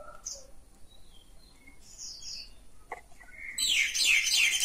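A bird chirping: a few scattered high chirps, then about three and a half seconds in a loud, rapid run of quick falling chirps.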